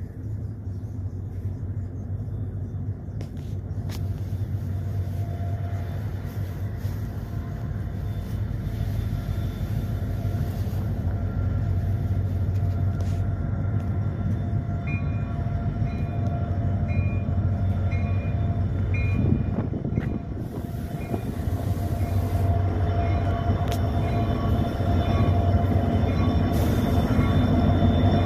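Four diesel locomotives of a CN freight train approaching, a steady low rumble growing gradually louder. About halfway through, a regular high-pitched ding joins, repeating roughly one and a half times a second.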